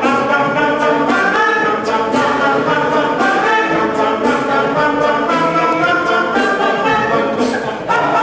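An all-male a cappella group singing in close harmony without instruments, the voices holding and moving through chords with no clear words.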